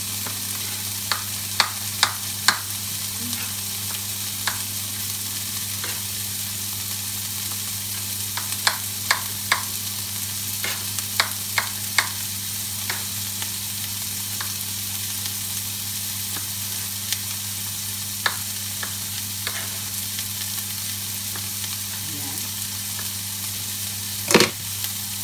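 Chopped garlic, ginger, onion and fresh tomatoes sizzling in hot oil in a non-stick frying pan, a steady frying hiss broken by scattered sharp pops and crackles. A louder knock comes near the end.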